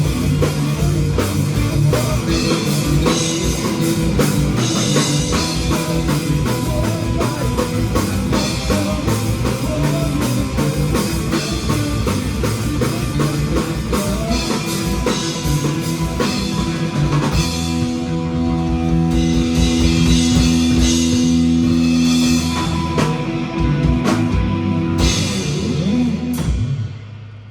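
Rock band playing live without vocals: drum kit hitting steadily under guitar. Chords are held out from about two-thirds of the way through, and the song ends with the sound cutting away near the end.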